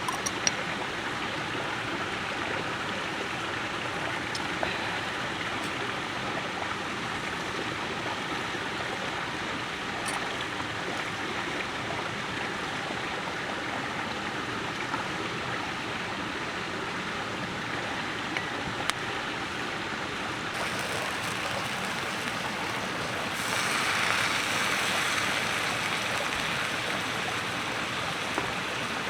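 Steady rushing noise like flowing water, with a few faint sharp clicks. It grows louder and brighter for a few seconds about two-thirds of the way in.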